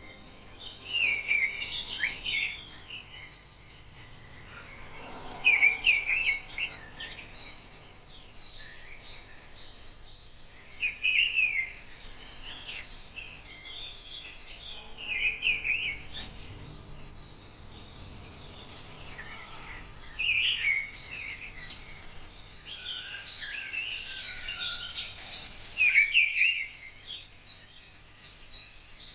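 Birds singing: short, loud song phrases come about every four to five seconds over steady, fainter chirping from other birds.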